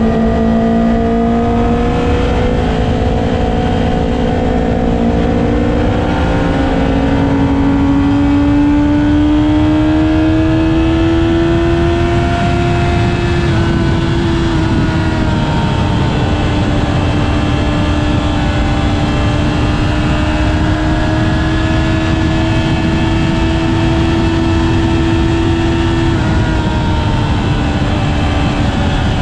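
Inline-four sport motorcycle engine running at high revs while riding, its pitch held fairly steady with gentle rises and dips and a slight drop near the end, over a steady rush of wind.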